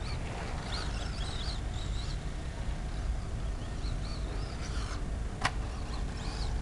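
Small birds chirping in short rising and falling calls over a steady low rumble, with one sharp click about five seconds in.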